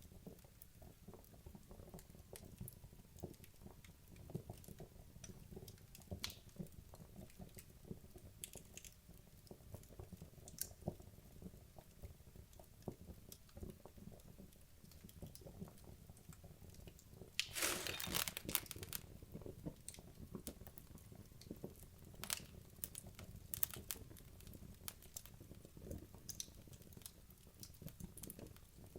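Wood fire in a fireplace, burning logs crackling and popping irregularly over a low steady rumble of the flames. A brief, louder flurry of crackles comes a little past the middle.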